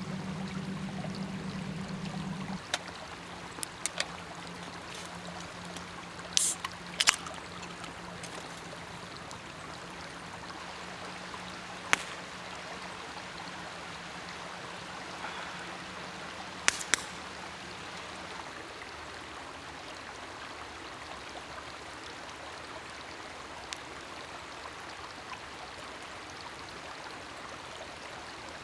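Campfire crackling, with a few sharp pops scattered through, over a steady hiss. A low hum underneath drops in level about three seconds in and fades out a little past halfway.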